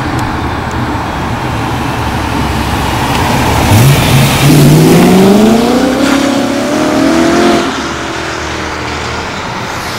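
BMW E92 M3's 4.0-litre V8 with a straight-piped exhaust accelerating hard past at close range, its note climbing steadily in pitch from about four seconds in. The note drops suddenly near eight seconds and the sound gets quieter as the car pulls away.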